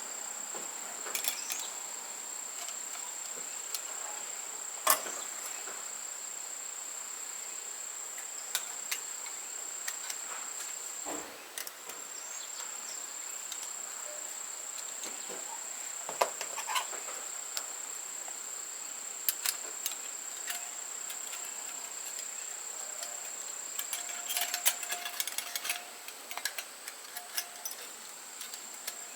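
A steady, high-pitched insect trill runs almost without pause. Scattered light clicks and knocks come over it, bunched together near the end.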